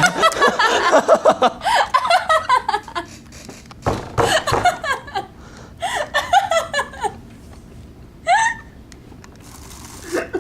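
People laughing hard in several bouts of breathy, gasping laughter, with a short rising squeal of a laugh about eight seconds in.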